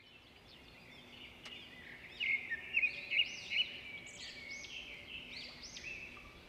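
Birds chirping and twittering: many short calls that rise and fall in pitch, overlapping, busiest from about two to four seconds in.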